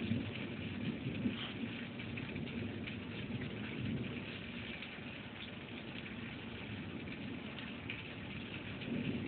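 Thunderstorm rain falling steadily, with low rumbles of thunder swelling about a second in, around four seconds in and again near the end.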